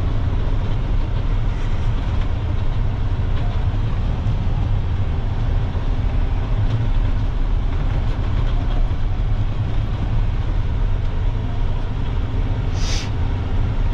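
Loaded dump truck under way, its engine and drivetrain giving a steady low rumble with the pusher axles down under about 20 tons of gravel chips. A short hiss comes near the end.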